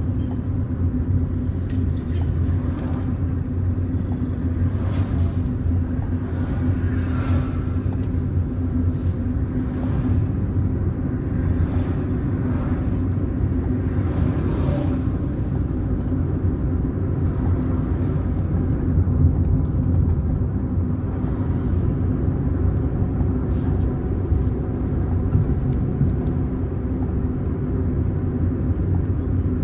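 Car driving along the road: a steady low rumble of engine and tyres, with a constant low hum.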